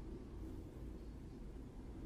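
Faint, steady low background rumble with no distinct sound event.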